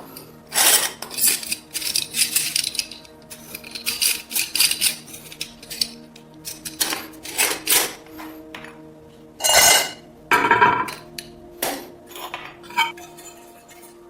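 Hand work on a metal oil lamp: a series of short, irregular scraping and clinking strokes, about a dozen, over soft background music.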